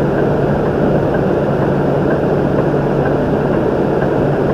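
Semi truck's diesel engine running steadily, a constant low drone heard from inside the cab.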